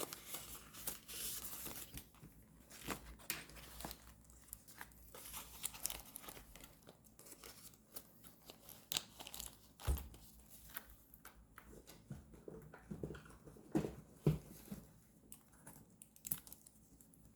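Paper and stickers being handled, with rustling, crinkling and tearing and many small clicks. A few soft knocks on the desk come about ten seconds in and again around fourteen seconds in.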